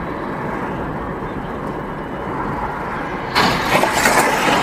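Steady road and engine noise of a moving car. About three and a half seconds in, a sudden loud rushing noise starts and carries on to the end.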